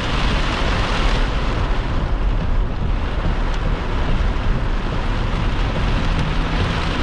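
Strong wind and wind-blown rain beating on a vehicle: a steady rush of noise, heaviest in the low end.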